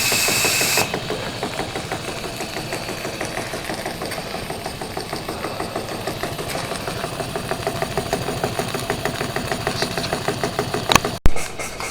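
Small live-steam model steam engines running, with a rapid, even beat of ticks and chuffs. A steam hiss in the first second, and a single sharp click near the end.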